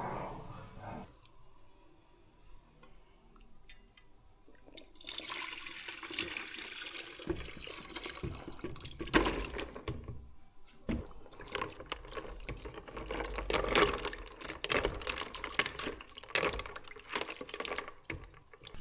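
Water running from a tap and splashing, starting about five seconds in and breaking off briefly partway through.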